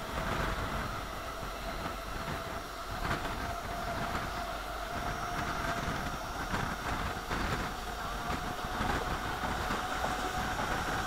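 Mumbai suburban electric local train running along the track, heard from the side of the coach: steady wheel-and-rail running noise with a steady whine and now and then a sharp clack.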